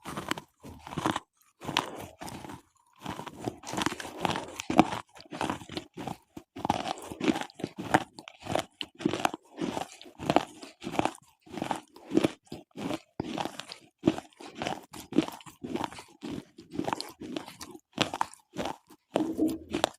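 Slate pencils being bitten and chewed up, close to the microphone: rapid, irregular dry crunches with short pauses between bites.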